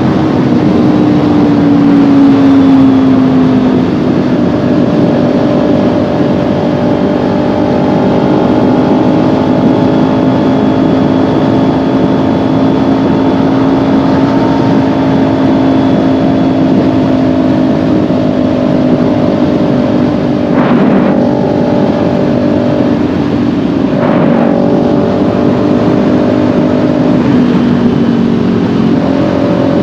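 Kawasaki Ninja 400's parallel-twin engine running at steady road speed over a rush of wind noise, its note sinking slightly about two seconds in. Twice, about two-thirds of the way through, the note breaks briefly and comes back, then it drops again near the end.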